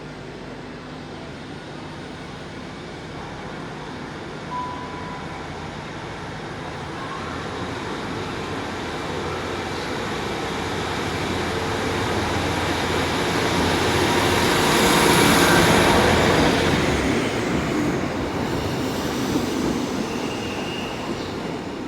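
A passenger train passing along the platform, its running growing louder for about fifteen seconds and then fading, with a high whine that drops in pitch as it goes by.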